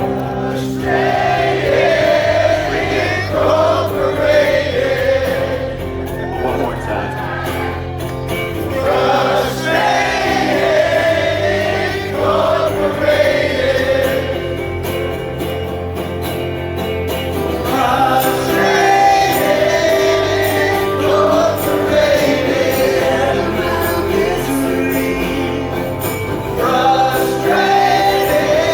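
Live acoustic rock band playing: acoustic guitar chords under a sung melody, with several voices singing together.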